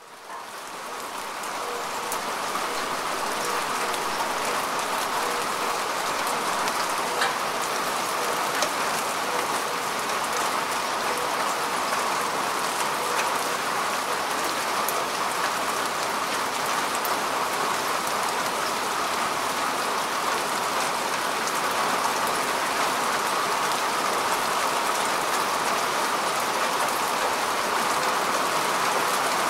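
Steady rain falling on grass and soil, an even hiss with scattered drop ticks. It swells up from a brief dropout in the first second or two, then holds level.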